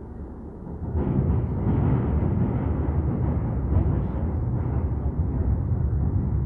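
Docklands Light Railway train running, a steady low rumble of wheels and motors heard from inside the carriage, growing louder about a second in and then holding.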